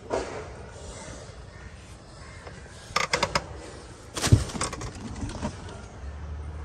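Crows cawing, a quick run of harsh calls about three seconds in, with a dull thump about a second later.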